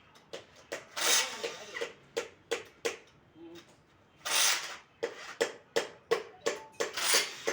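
Hand-tool work on engine parts: a run of short, sharp scrapes or knocks, about three a second, with three longer noisy strokes about a second, four seconds and seven seconds in.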